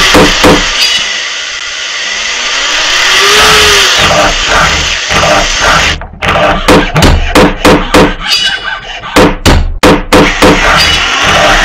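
Electronic music track built from knocking, hammer-like hits. For the first few seconds a noise sweep swells, then about six seconds in it gives way to a quick rhythmic run of sharp knocks, about three a second.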